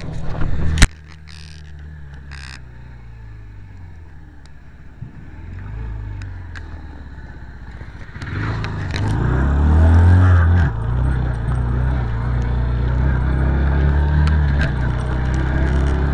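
Motor vehicle engine sounds: a sharp click about a second in, then a quieter stretch with a slowly falling engine note, and from about eight seconds in a loud, steady low engine running.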